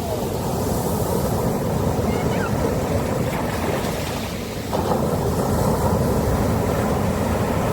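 Sea surf washing onto a beach, a steady rushing noise. A new wave surges in about two-thirds of the way through.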